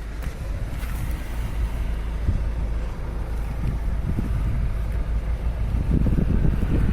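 Citroen C4 Grand Picasso's 1.6 HDi four-cylinder turbodiesel running steadily with a low rumble, growing louder towards the end.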